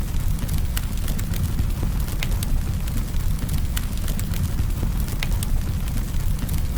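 Campfire burning: a steady low rumble with frequent, irregular sharp crackles and pops of burning wood.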